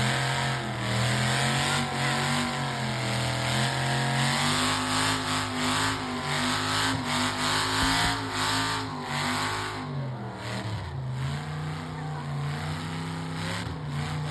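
A burnout vehicle's engine held at high revs, its pitch wavering up and down over a rushing noise. It eases off about ten seconds in, then revs back up.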